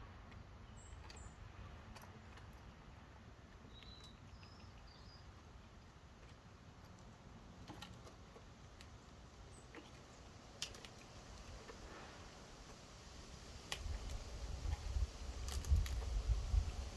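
Small songbirds at a bird feeder: a few short, faint, high chirps and scattered light clicks and taps. A low rumble rises near the end.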